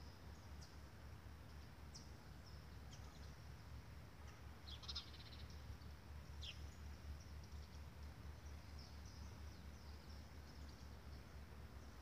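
Small birds chirping faintly in the trees, a few short high calls scattered through, with a quick cluster of calls about five seconds in and a brief falling call soon after, over a low steady background rumble.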